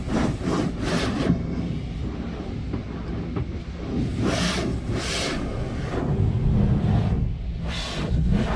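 Automatic car wash heard from inside the car: a steady low mechanical rumble, with whooshing passes of the wash equipment over the car, two in quick succession midway and another near the end.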